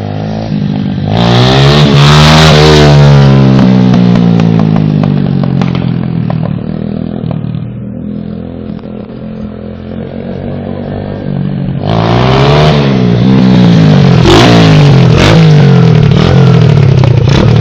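A 125 cc pit bike's single-cylinder four-stroke engine being ridden and revved up and down. It runs loud about a second in, eases off through the middle, and comes back loud with repeated revs from about twelve seconds in.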